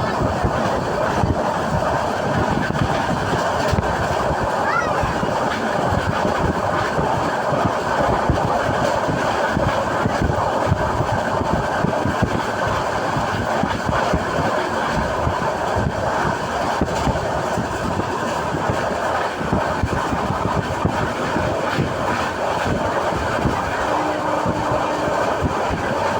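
A moving passenger train heard from inside the coach: the carriage's wheels on the rails give a steady rumble and rattle that runs on without a break.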